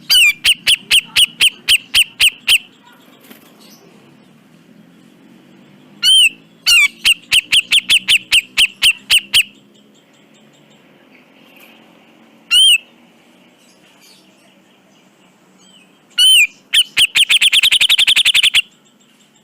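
Cucak jenggot (grey-cheeked bulbul) calling in loud harsh bursts. Each burst opens with an arched note and runs into a rapid series of repeated notes, about four a second. There are two such bursts, then a lone note, then a last burst that speeds up into a fast rattle near the end.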